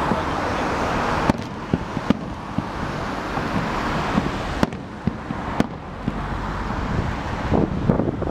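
Fireworks going off: several sharp bangs, about four, over a steady hissing crackle, with wind rumbling on the microphone.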